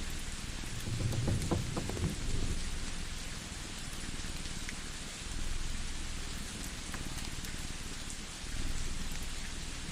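Layered ambience: a fireplace's steady hiss with a few sharp crackles and pops, over a cat's low purr that swells and fades in long phases.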